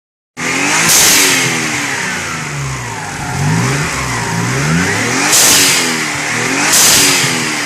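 Nissan 300ZX's twin-turbo V6 revved repeatedly, its pitch climbing and falling several times. Three short, sharp hisses, about a second in and twice near the end, are the loudest moments.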